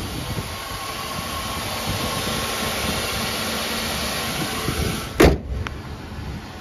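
Ford 4.6-litre V8 of a 2004 Lincoln Town Car idling steadily with the hood up. About five seconds in, the hood is shut with one loud bang.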